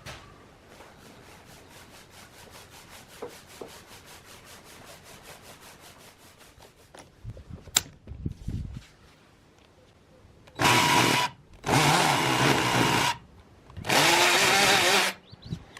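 Power drill running in three short bursts of about a second each in the latter half, after a few knocks.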